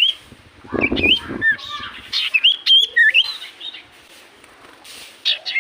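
Common iora (cipoh) singing: runs of quick whistled notes that glide up and down, with a short lower, rougher sound about a second in.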